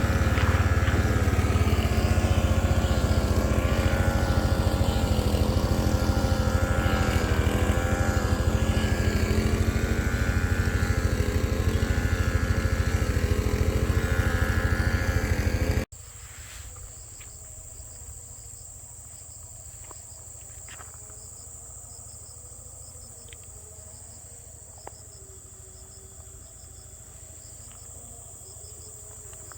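A small engine running steadily with a wavering whine for about the first sixteen seconds, then a sudden cut to much quieter insect calls with one steady high tone and a few faint clicks.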